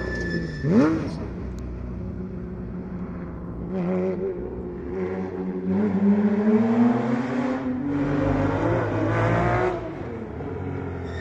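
Historic rally car engine at full throttle on a stage. There is a sharp throttle blip about a second in, then the revs climb steadily for several seconds and drop away near the end.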